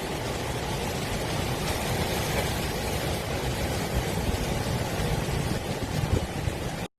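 Roar of heavy typhoon surf and wind: a loud, churning rumble of waves breaking and washing over a harbour breakwater, cutting off abruptly near the end.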